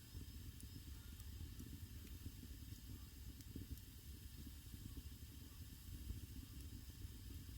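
Wood fire burning in a traditional Korean agungi firebox: a faint steady hiss and low rumble with a few small, scattered crackles.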